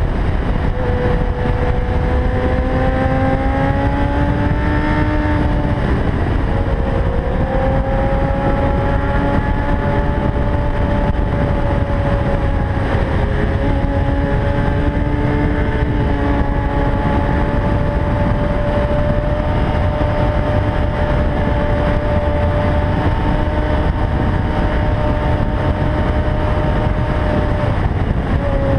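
Kawasaki ZX-10R inline-four engine running at steady high revs at speed. Its pitch climbs slowly over the first few seconds, dips briefly about six seconds in, then holds nearly level. Heavy wind rumble on the helmet-mounted microphone runs under it.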